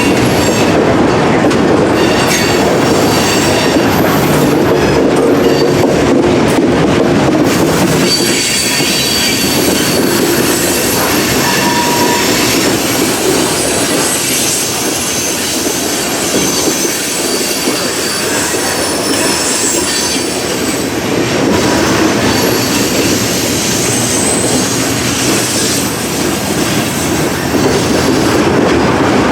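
Freight train cars rolling past, with wheels squealing and clicking over the rail joints. The squeal comes and goes as thin high tones over a steady rumble.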